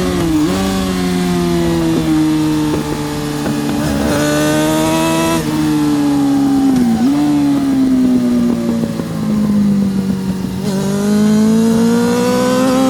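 Yamaha R6 RJ03 inline-four engine heard onboard. Revs fall over several seconds, with brief dips in pitch near the start and about seven seconds in, then climb steadily as the throttle opens near the end.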